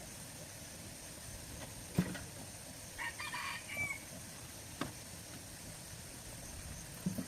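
A faint bird call lasting about a second, midway through, ending in a short gliding note, over a steady hiss, with a few sharp knocks, the loudest a couple of seconds in.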